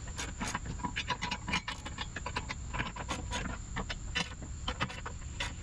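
Irregular metallic clicks, knocks and scraping, several a second, as the flail mower is shifted sideways on its mounting bracket to correct an offset.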